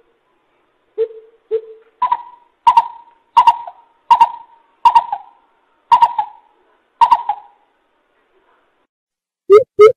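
Coucal ('chim bịp') calling from a lure-call recording. Two low hoots are followed by a series of seven sharper, higher notes about one every 0.7 s, which stop after about seven seconds. A fast run of low hoots starts near the end.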